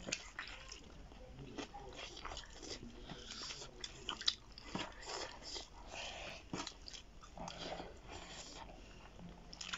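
Several people eating cooked duck with their hands: biting and chewing the meat, with irregular wet mouth smacks and small clicks.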